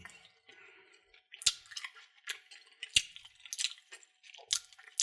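Candy packaging being handled: plastic wrappers crinkling in short irregular bursts, with a few sharp clicks or taps about a second and a half apart.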